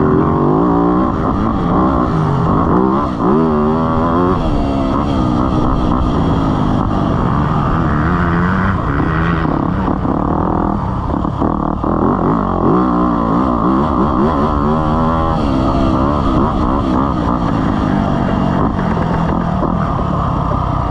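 Motocross dirt bike engine being ridden, revving up and dropping back over and over, its pitch climbing and falling every second or two over a steady low rumble.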